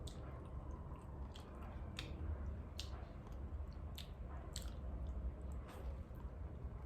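Close-miked chewing of birria tacos: soft wet chewing with sharp mouth smacks and clicks about every second.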